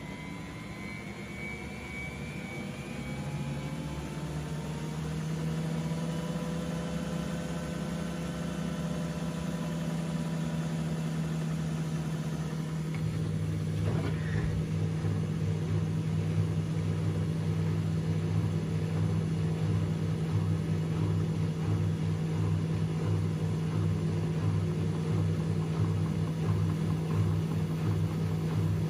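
Washing machine motor running up to speed, its whine rising in pitch as the drum accelerates. It then settles into a steady hum, and a lower, pulsing drone joins about halfway through.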